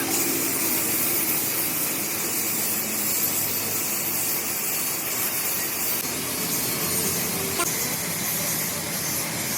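A machine running steadily, with a continuous broad hiss.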